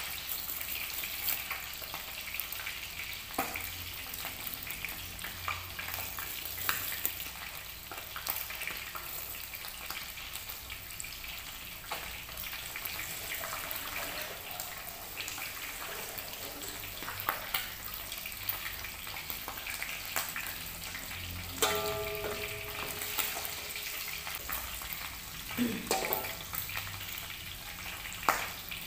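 Oil sizzling steadily as pindang fish and chicken pieces fry in a pan on a gas stove, with many small spits and clicks.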